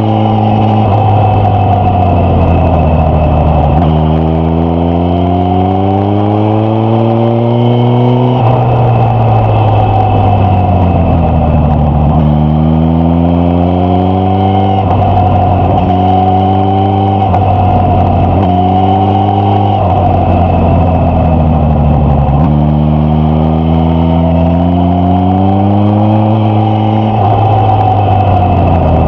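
Suzuki GSX-S1000F's inline-four engine and exhaust, pulling with the pitch climbing under acceleration, then dropping back as the throttle closes. This happens several times over.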